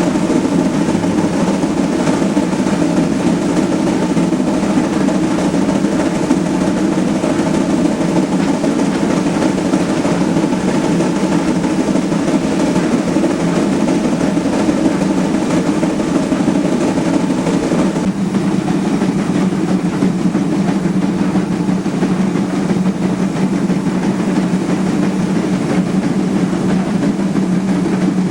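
Steam-powered excursion train running, a steady loud rumble throughout; the tone shifts about eighteen seconds in.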